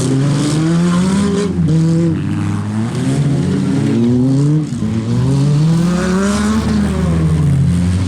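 Several compact demolition-derby cars' engines revving, their overlapping pitches repeatedly climbing and dropping back.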